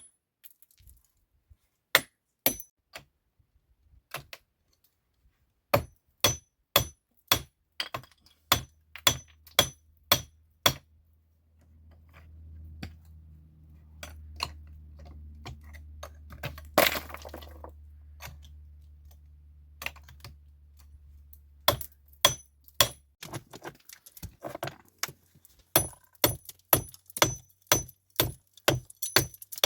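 Repeated sharp, ringing clinks of hard strikes on stone, roughly one or two a second, coming faster near the end. A low hum runs through the middle, with a short rush of noise about halfway through.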